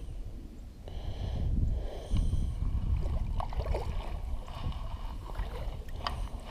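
Sounds of a kayak on the water: a series of small knocks and water sounds, under a low rumble that swells in the first few seconds and then eases, like wind on the microphone.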